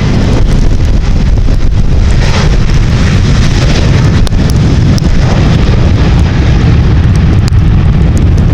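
Jet airliner engine noise from an aircraft on the runway, mixed with strong wind buffeting the microphone, loud and steady throughout.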